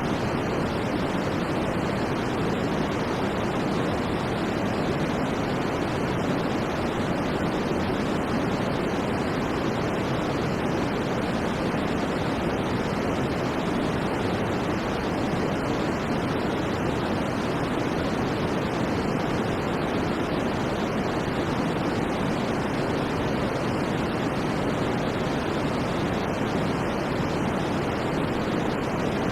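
Synthetic white noise for sleep, playing as an even, unchanging rush with most of its weight in the lower and middle range and little bright hiss.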